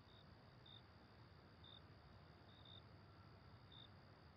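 Near silence: faint night ambience with a single cricket giving short, high chirps about once a second.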